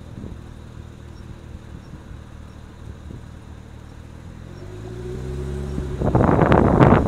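BMW E90 335i engine note rising in pitch as the car accelerates, then loud wind buffeting on the microphone for about the last second.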